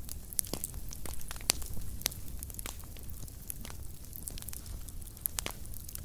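Wood fire in a fireplace crackling, with irregular sharp pops and snaps over a low steady rumble of burning.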